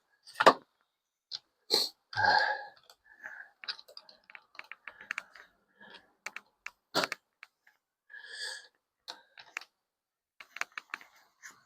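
Scattered clicks, clinks and short knocks of parts and tools being handled, with a few brief scraping rustles in between and a louder knock about a second and a half in and another near seven seconds.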